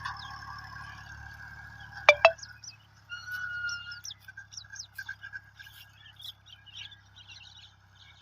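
A low engine hum and a steady mid-pitched whine fade away over the first two seconds. Two sharp clicks come about two seconds in, the loudest sounds here. Small birds then chirp repeatedly over a faint hum.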